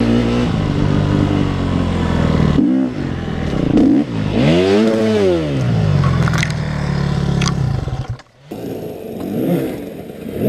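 Motorcycle engine running and revving, its pitch rising and falling again in the middle, with scraping and clattering; it breaks off about eight seconds in and another motorcycle revs near the end.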